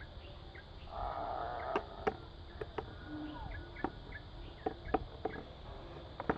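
Outdoor ambience with a steady high insect drone, a brief rasping noise about a second in, and scattered short clicks and chirps.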